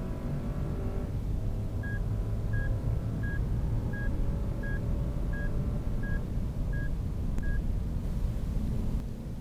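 Lexus LX570's 5.7-litre V8 pulling hard under acceleration, its note rising with a gear change about a second in and easing off near the end. Over it a dashboard warning chime beeps about nine times at an even pace, then stops.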